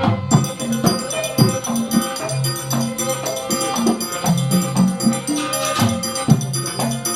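Live Gandrung dance music from Banyuwangi, played by a small traditional percussion ensemble: a busy rhythm of drum and metal strikes under pitched melodic lines.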